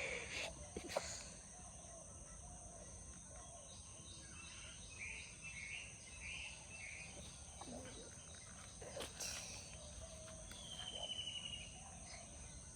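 Outdoor nature ambience: a steady high insect drone with short bird chirps in the middle and a quick bird trill near the end.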